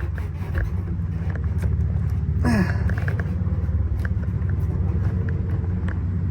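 A steady low machine hum, like an engine running, with small clicks of hands working plastic fuel-pump retaining clips and a brief falling squeak about two and a half seconds in.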